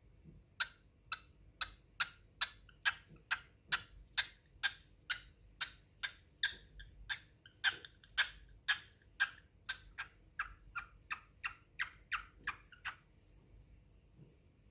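Cockatiel giving a long, even series of short, sharp chirps, about three a second; they stop about a second and a half before the end.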